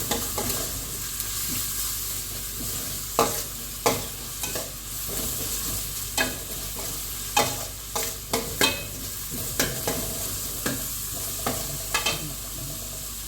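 Chicken frying in spiced masala with a steady sizzle, stirred with a metal spoon that clinks and scrapes against the pan about a dozen times at irregular intervals.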